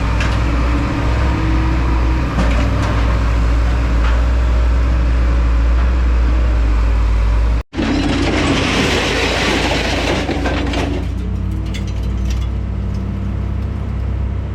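A heavy engine-driven machine running with a steady low hum. The sound drops out for an instant a little before the middle, then a rushing hiss lasts about three seconds before the steady running carries on alone.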